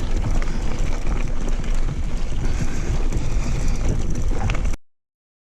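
Wind buffeting the microphone during a mountain bike ride, over a constant low rumble. The sound cuts off suddenly near the end.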